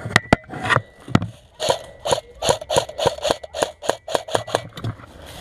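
Airsoft gunfire: a few scattered sharp cracks, then a fast, even run of about five cracks a second for some three seconds, ending near the end.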